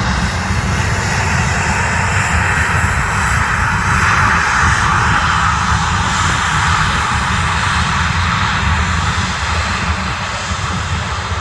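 Jet engines of a Ryanair Boeing 737 coming in to land: a steady jet roar that swells to its loudest about four to five seconds in, then eases off slightly as it passes.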